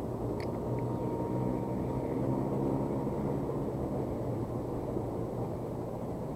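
A steady low engine-like drone at even level, with two faint clicks about half a second in.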